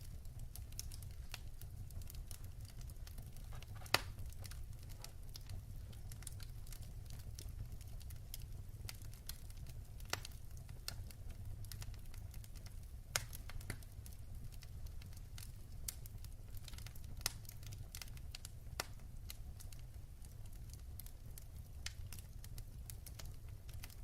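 Wood fire burning in a fireplace, crackling with irregular sharp pops over a low steady rumble; the loudest pop comes about four seconds in.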